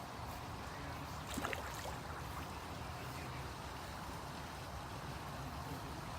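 Steady outdoor background noise with a low rumble, and a brief cluster of clicks about a second and a half in.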